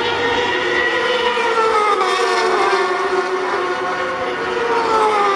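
Superbike racing motorcycle engine running at high revs, its pitch sinking slowly over a couple of seconds in the middle and dropping again near the end.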